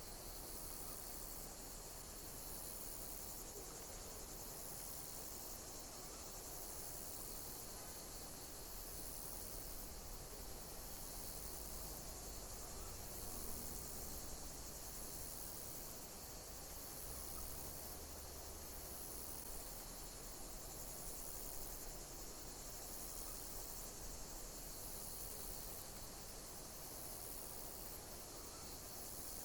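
Insects chirping: a high-pitched chirping pulse repeats evenly about every two seconds over a steady hiss.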